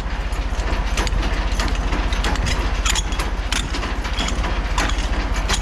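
Semi-truck diesel engine idling, a steady low rumble, with scattered metallic clicks and knocks over it.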